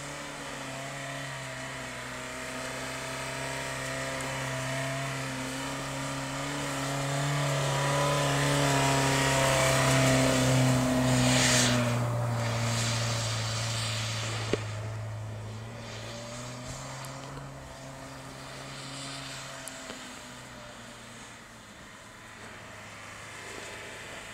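Honda Fit 4WD's four-cylinder engine held at steady revs as the hatchback ploughs through deep snow, growing louder as it comes close, with a short hiss of thrown snow about eleven seconds in, then fading as it drives away.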